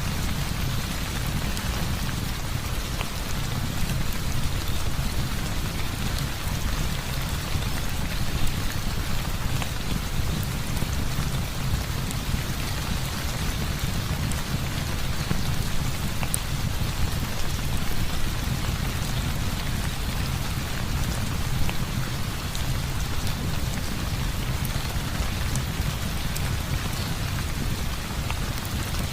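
Heavy rain falling steadily, with a constant low rumble underneath and a few faint scattered ticks.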